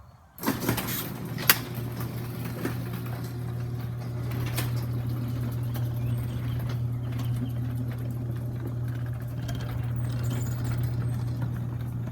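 Electric garage door opener starting up about half a second in and running with a steady low motor hum as it closes the door, with a few sharp clicks and rattles; the motor stops near the end.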